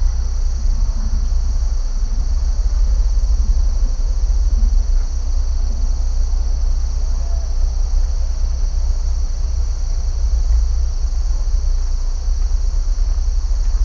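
Steady, unbroken chorus of crickets or similar insects, with a strong steady low rumble beneath it.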